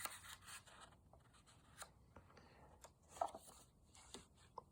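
Faint rustling and small clicks from a paper program being handled, with one sharper click a little past three seconds.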